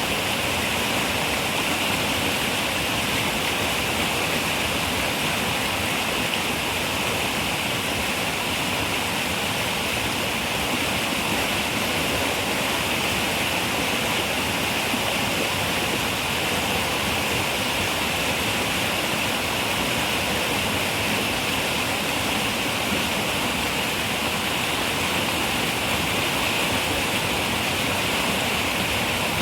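Running river water, a steady rushing flow with no breaks or separate events.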